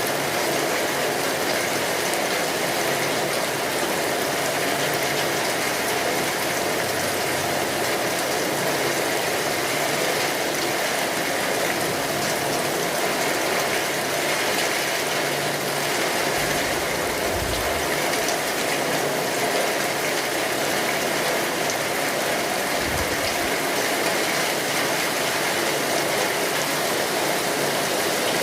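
Steady rain drumming on a tin roof, with fire crackling under it. Two brief low rumbles come through, a longer one about two-thirds of the way in and a shorter one a few seconds later.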